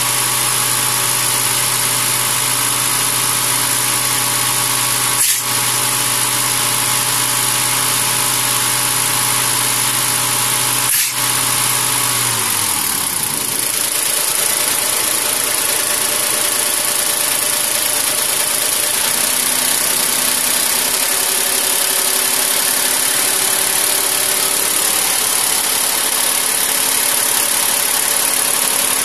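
Mahindra tractor's diesel engine running steadily, with two sharp knocks about six seconds apart. About twelve seconds in, its low steady hum drops away and the engine's note shifts.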